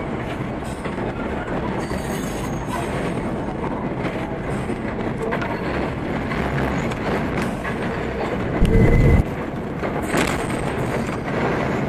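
R32 subway car running along the track: a steady rumble of wheels on rail with some clickety-clack. A short, heavy low thump stands out about nine seconds in.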